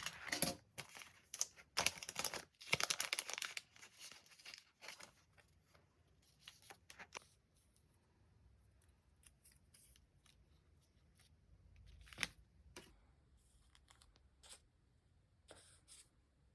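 Paper stationery handled close to the microphone: a few seconds of rasping, tearing-like paper and sticker noise, then scattered light taps and clicks.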